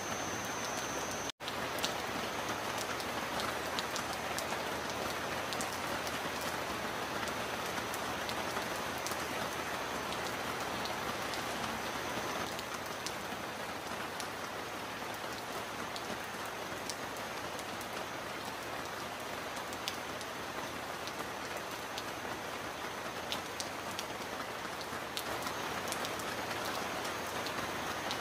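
Steady rain, a dense even hiss with scattered sharp drop ticks. The sound cuts out for an instant about a second and a half in.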